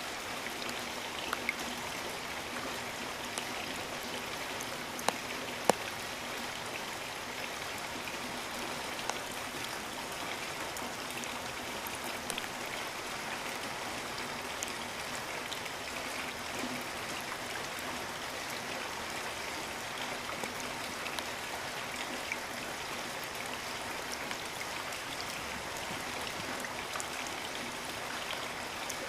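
Steady rain: an even hiss with scattered louder drops ticking close by, a few of them sharper about five and six seconds in.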